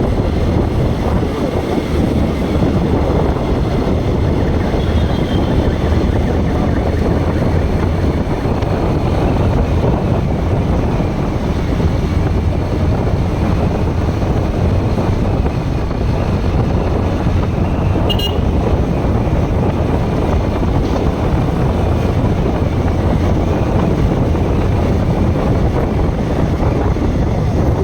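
Bajaj Pulsar NS160 motorcycle being ridden, with steady road and wind rush on the microphone and the engine running beneath it. A short sharp click comes about eighteen seconds in.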